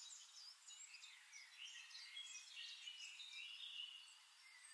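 Near silence with faint chirping of small birds, short high calls scattered throughout.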